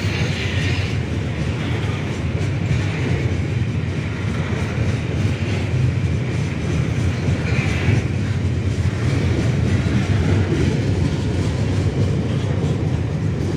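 Babaranjang coal train's open-top wagons rolling past close by: a steady, loud rumble of steel wheels running on the rails.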